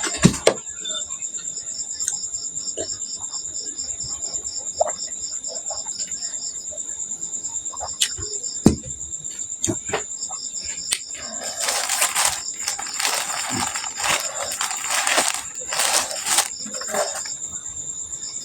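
Crickets chirping steadily in the background, a continuous high trill with fast pulses, under close eating sounds: scattered clicks and, about two-thirds of the way through, a run of louder noisy bursts.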